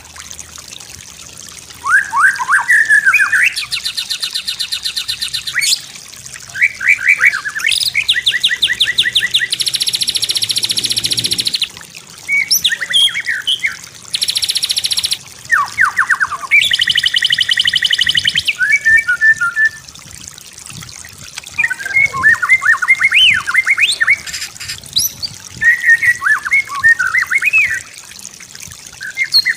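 White-rumped shama singing a varied song: sweeping whistled phrases alternating with fast buzzing rattles and trills, separated by short pauses.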